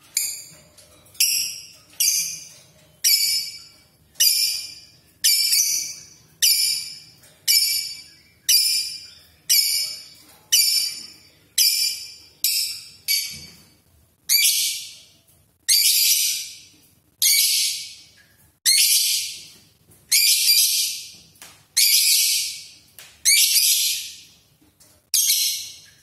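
A small cage bird giving a shrill, high-pitched call over and over, about once a second. The calls are short at first and become longer and fuller about halfway through.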